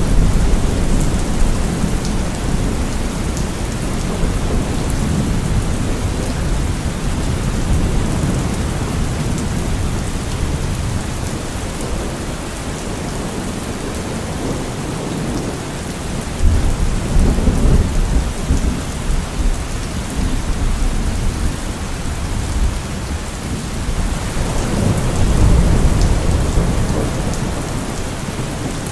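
Steady rain falling, with rolling thunder. Low rumbles swell at the start, about halfway through and again near the end.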